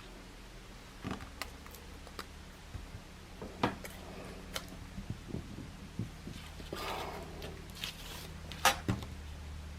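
Crafting materials being handled on a work table: scattered light taps and clicks with a short paper rustle near the end, over a low steady hum.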